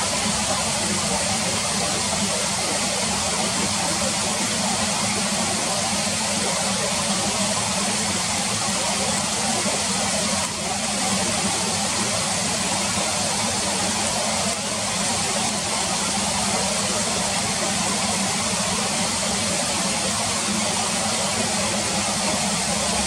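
Steady rush of river water flowing over stones, with two brief dips in level about halfway through.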